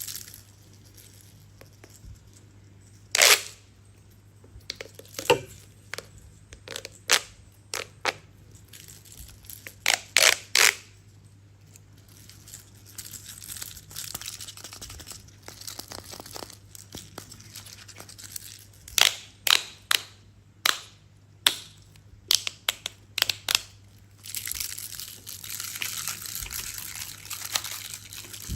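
Hard plastic toy parts handled: sharp clicks and knocks, some in quick runs of two or three, then a few seconds of crinkly rustling near the end.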